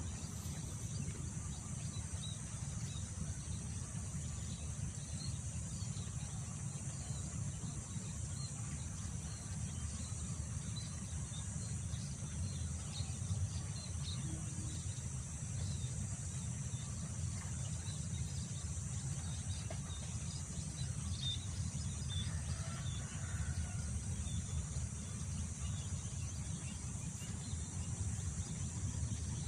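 Outdoor field ambience: wind buffeting the microphone as a steady low rumble, under a constant high drone of insects and scattered short bird chirps.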